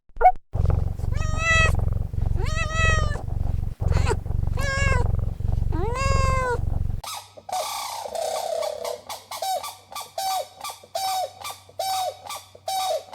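A domestic cat purring steadily while meowing four times, each meow rising then falling in pitch. About seven seconds in, the purring stops and a run of short, high calls follows, repeated about twice a second.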